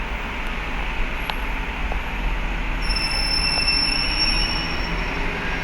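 Steady mechanical rush and low hum, typical of engines and machinery aboard a vehicle ferry, with a high, thin metallic squeal from about three seconds in that lasts around two seconds.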